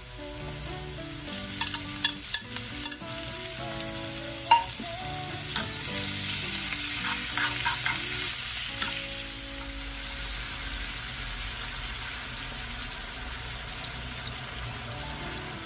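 Onions and sliced beef sizzling and frying in a nonstick pan while being stirred, with a few sharp clicks and knocks of utensils against the pan in the first five seconds.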